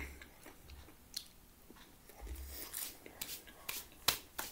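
Chewing of a homemade ham-and-cheese pizza close to the microphone, with scattered short mouth clicks. The sharpest click comes about four seconds in.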